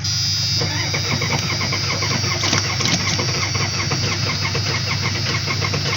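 A 1986 Ford F-250's 6.9 L IDI diesel V8 catching and running rough, with a hard, rhythmic knocking clatter. The engine has been revived after sitting seven years through a flood and is running on starting fluid.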